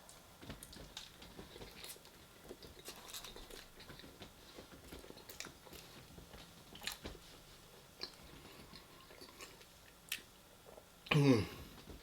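Close-miked chewing and biting: faint wet clicks and crunches of someone eating takeaway Mexican food. Near the end comes a short, louder voiced sound that falls in pitch.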